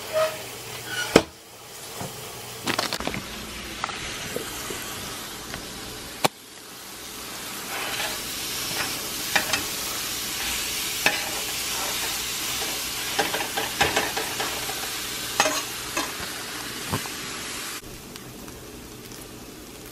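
Beyond Beef plant-based ground sizzling as it browns in a stainless steel frying pan, while a spatula stirs and breaks it up, with sharp clicks and scrapes of the spatula against the pan.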